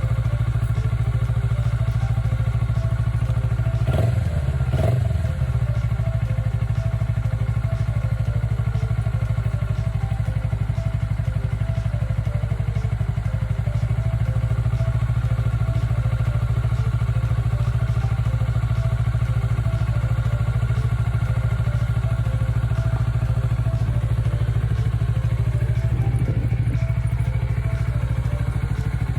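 Kawasaki Ninja 400R's parallel-twin engine idling steadily after three months without being started. It revs briefly twice about four seconds in and once more near the end.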